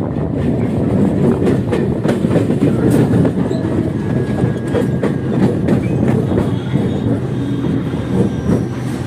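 Kolkata suburban electric local train running, heard from inside the coach: a steady rumble with the wheels clattering on the rails.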